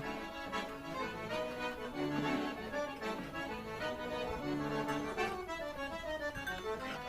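Background music: an accordion playing an instrumental passage of a traditional folk song, with notes changing in a quick melody.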